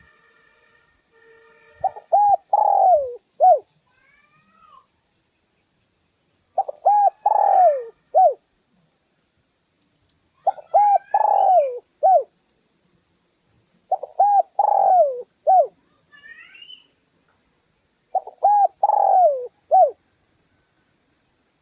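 Spotted dove cooing: a phrase of several short hooting coos, the last drawn out and falling, repeated about every four seconds, five phrases in all.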